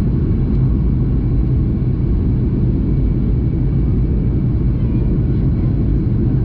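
Steady cabin rumble of a Boeing 737 MAX 8 in flight, the drone of its CFM LEAP-1B engines and the rush of air around the fuselage, heard from inside the passenger cabin.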